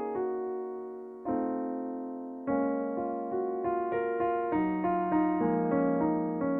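Background music: soft solo piano playing sustained chords and notes, each struck and left to decay.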